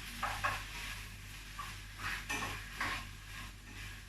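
A cooking utensil clinking and scraping against a pan a handful of times, as chicken cooking in it is stirred and checked.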